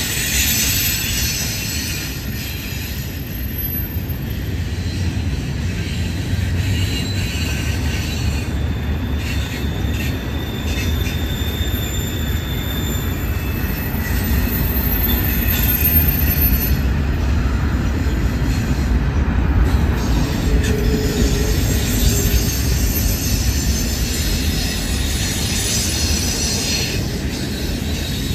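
Double-stack intermodal freight cars rolling past: a steady low rumble of steel wheels on rail, with faint, thin wheel squeals coming and going through the middle.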